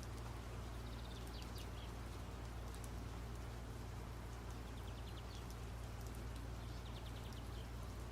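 Birds chirping in short calls and quick trills over a steady low hum.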